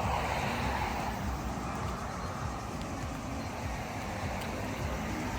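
A car passing close by, its tyre and engine noise swelling at the start and fading away over about two seconds, over a low street rumble.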